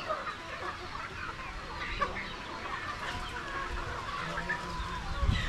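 A flock of Rhode Island Red chickens clucking, many short overlapping calls throughout.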